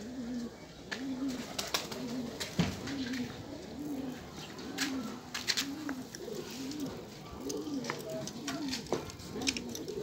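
A bird's low call, rising and falling in pitch, repeated steadily about three times every two seconds, with scattered sharp clicks and rattles over it.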